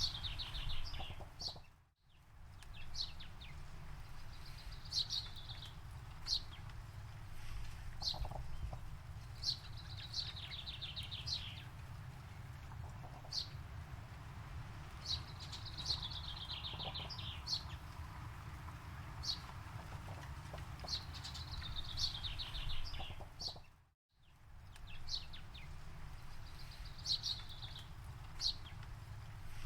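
Songbird singing a short descending trill every few seconds, with single sharp chirps in between, over a steady low rumble. The sound fades out briefly and comes back twice, about two seconds in and again near the end.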